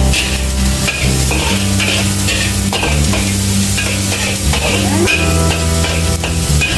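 Onions sizzling as they fry in a pan, stirred with repeated scraping strokes, over background music with a steady bass line.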